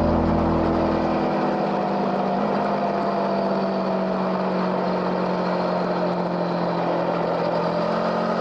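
Motorcycle engine running steadily under way, its pitch rising slowly as it gains speed.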